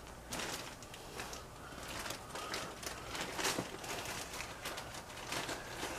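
Irregular rustling, scraping and light knocks of packing material and cardboard being handled, as a ceiling fan and its parts are unpacked from the box.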